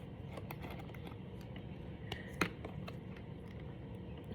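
Brain Flakes plastic interlocking discs clicking and clattering as they are handled and pressed together: irregular small clicks, one louder click about two and a half seconds in.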